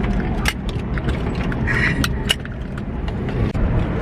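A steady low mechanical hum inside a helicopter cabin, with scattered sharp clicks and knocks from gear such as headsets and seatbelts being handled.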